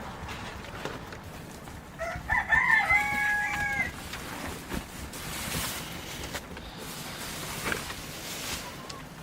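A rooster crowing once, about two seconds in: a few short rising notes and then one long held note, lasting about two seconds.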